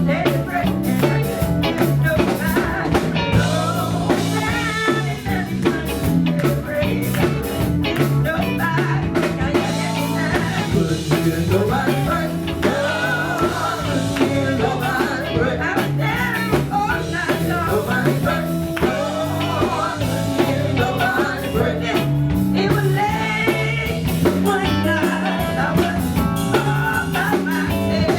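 Live band music with singing over drum kit and guitar, at a steady loud level throughout.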